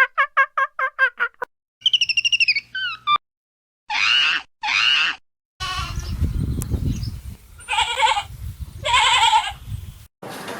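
A run of different animal calls joined one after another: a fast series of short pitched chirps, then higher warbling notes, then two short bleat-like calls, then two more calls over a rumbling noise.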